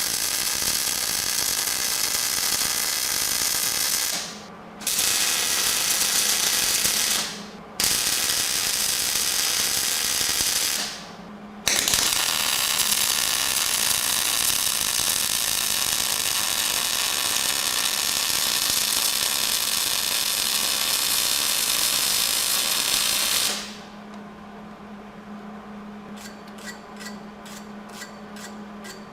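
Electric arc welding on the rear-axle brackets: four crackling, hissing weld runs, the last about twelve seconds long, each with short pauses between. Near the end the arc stops, leaving a steady low hum and a few light clicks.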